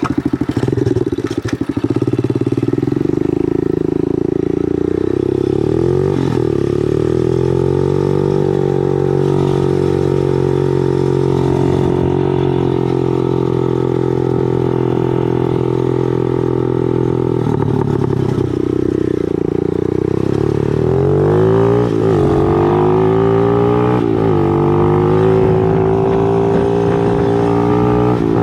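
Motorcycle engine running just after being started, at a steady idle for most of the time, with brief blips of the throttle, then rising in pitch as it revs up over the last several seconds.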